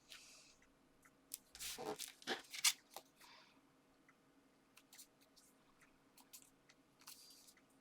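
Paper and card being handled on a desk: rustling, light taps and short crinkling or peeling sounds, loudest and busiest about two seconds in, with a few scattered ticks after.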